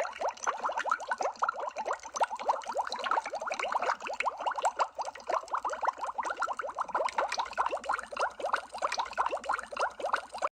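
Underwater bubble sound effect: a dense, unbroken stream of bubbles, many short blips each rising quickly in pitch and overlapping one another.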